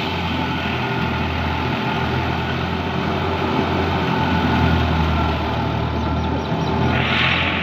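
A heavy farm vehicle's engine running steadily at idle, with a brief hiss near the end.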